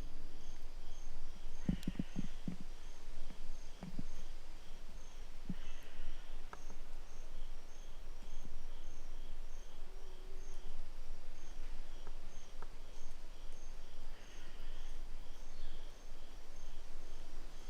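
An insect chirping steadily, about two short pulses a second, in the woods along a creek, with a few soft knocks and rustles from close by.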